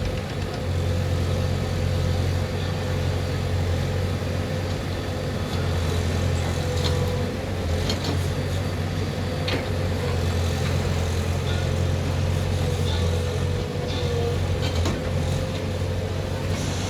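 Heavy diesel machinery engine running steadily, with a few short knocks between about seven and ten seconds in.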